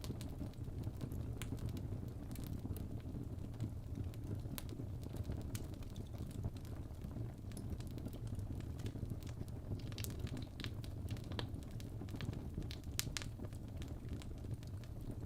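Log fire burning in a fireplace: a steady low rumble of flame with scattered sharp crackles and pops, a quick cluster of them about two-thirds of the way through.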